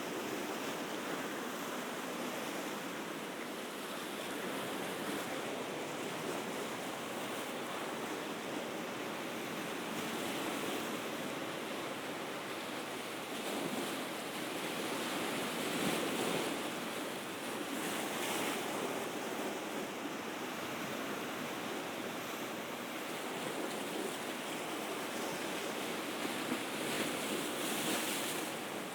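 Mediterranean sea waves washing on the shore: a steady rush of surf that swells a few times, most around the middle and near the end.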